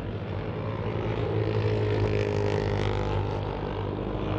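Racing motorcycle engines running under throttle as a steady engine note that grows slightly louder.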